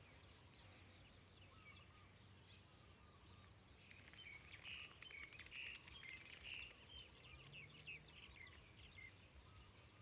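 Near silence with faint bird chirping, many quick small calls, starting about four seconds in.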